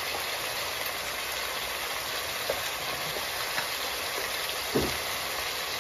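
Chicken, onions and spices frying in mustard oil in an aluminium kadai: a steady sizzle with a few faint pops, and one louder knock near the end.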